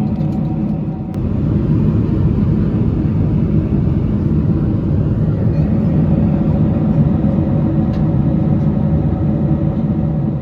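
Steady cabin drone of a Boeing 747-400 airliner in cruise, heard from inside the economy cabin. It is a constant rush of airflow with a low engine hum and a few steady tones in it. There is a small click about a second in, and the level steps up slightly just after it.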